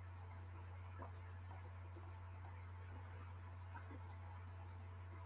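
Faint room tone: a steady low electrical hum with faint, scattered ticks.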